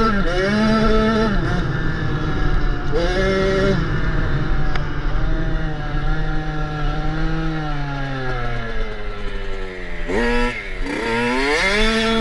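Dirt bike engine revving up in short climbs, as if shifting up through the gears. It then drops slowly in pitch for several seconds as the bike slows, and accelerates hard again near the end.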